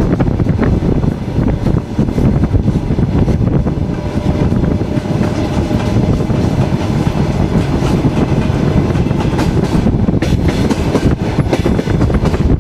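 Passenger train carriage running steadily at speed, its wheels rumbling and clattering on the rails, recorded from the carriage window with wind buffeting the microphone.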